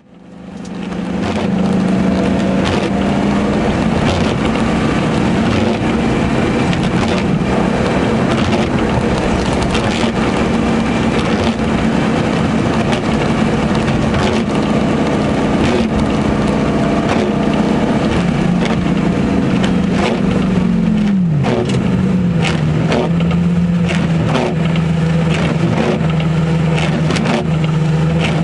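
Lamborghini Gallardo V10 engine running while driving on a wet road, heard from inside the cabin. The engine note holds steady, then falls about 21 seconds in and settles lower as the car slows.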